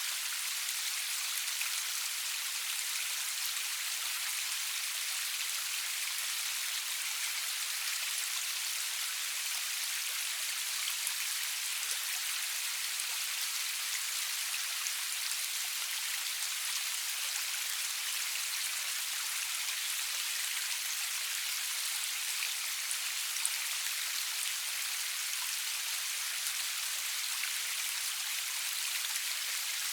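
Steady rain falling, an even high hiss of many drops with small scattered drop ticks and no thunder.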